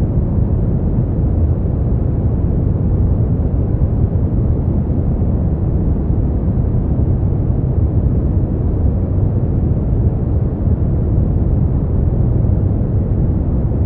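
Steady, unchanging synthetic noise for sleep, a deep even rumble that is heavy in the low end with only a soft hiss and no high frequencies.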